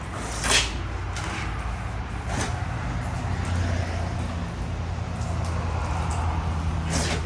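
Steady low machine hum with a few sharp knocks, the loudest about half a second in.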